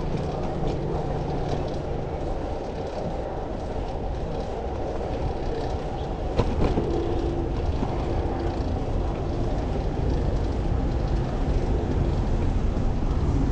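Steady low rumble of wind and road noise heard while riding a fixed-gear bike through city streets, with a sharp click about six and a half seconds in.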